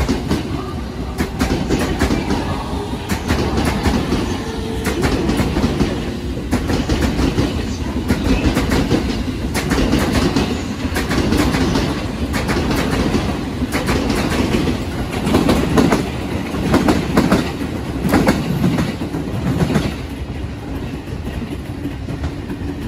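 A JR East commuter electric multiple-unit train running alongside the platform: a steady rolling rumble with an uneven run of sharp wheel clacks over the rail joints. The noise eases near the end as the train moves away.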